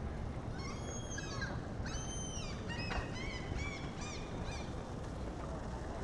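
Bird calling: a few drawn-out, high harmonic calls followed by a quick run of short calls, over a steady low rumble of wind on the microphone.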